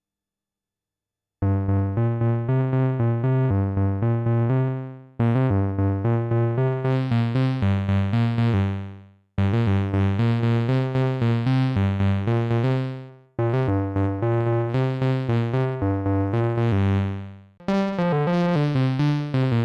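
Arturia MicroFreak synthesizer playing its Noise Engineering Bass oscillator: a low, pitched sequence of short repeated notes at about two or three a second. The notes come in four phrases of about four seconds each, separated by short breaks, and begin about a second and a half in.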